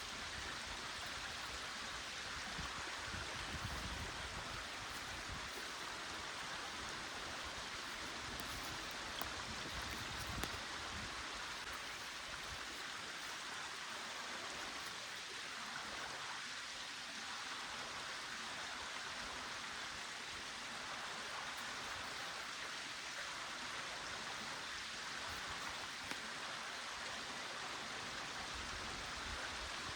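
A small stream running steadily, with a couple of faint clicks about a third of the way in.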